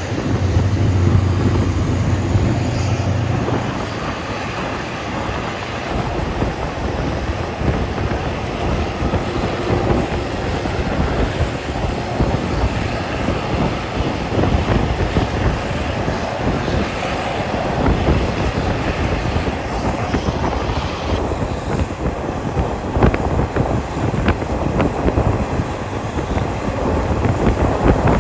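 Passenger train running, heard from on board: a steady rumble of wheels on rails, with sharp clicks from the wheels passing over rail joints in the second half.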